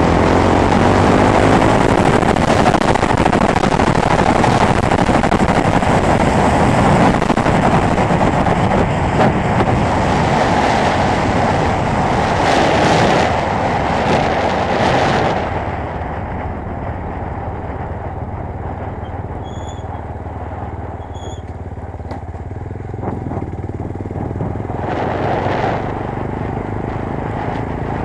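Chinese GX-R 250S 250 cc motorcycle being ridden at speed, its engine running under a heavy, steady rush of noise. About halfway through it turns quieter and the high hiss drops away, then picks up a little near the end.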